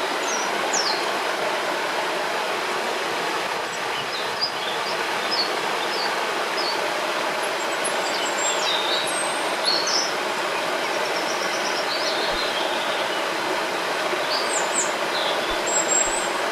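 A river rushing steadily, with small birds giving short high chirps and a quick trill above the water throughout.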